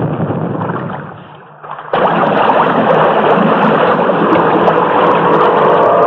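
Steady rushing noise that fades away over the first second and a half, then cuts back in suddenly at full level about two seconds in and holds steady.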